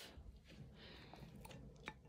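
Near silence: room tone with a few faint clicks, the sharpest one near the end.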